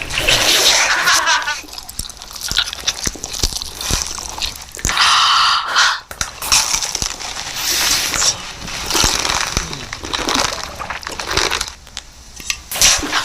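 Food being bitten and chewed close to the microphone, with irregular crunching bursts.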